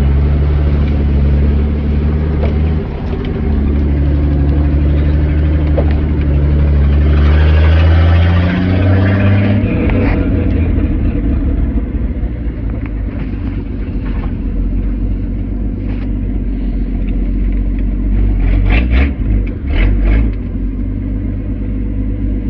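Old carbureted inline-six truck engine running, a steady low drone that climbs a little about seven seconds in and drops away abruptly around ten seconds in. After that it runs rougher and quieter, with a few sharp knocks near the end.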